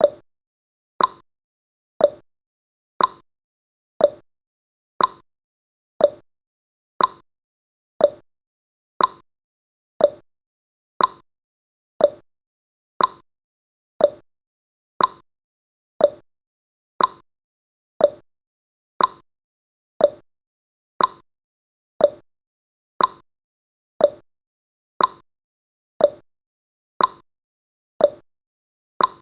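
Clock-style tick-tock timer sound effect: one short tick every second, alternating higher and lower in pitch.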